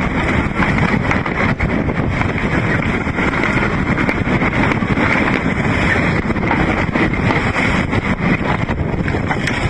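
Storm wind buffeting the microphone over the steady rush of wind and sea aboard an ocean-racing sailing yacht, with many small knocks and clatters through it.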